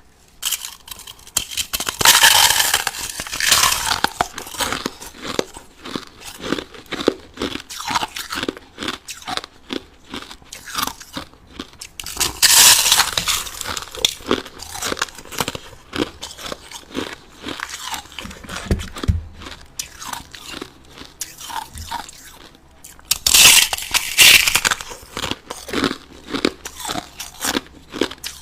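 A person biting and chewing crushed ice close to the microphone: rapid, irregular crunching, with three louder bursts of crunching as fresh mouthfuls are bitten, each about 2 s long and about ten seconds apart.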